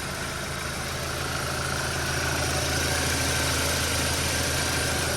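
2014 Audi A4 2.0T's turbocharged 2.0-litre four-cylinder engine idling steadily, growing slightly louder a second or two in.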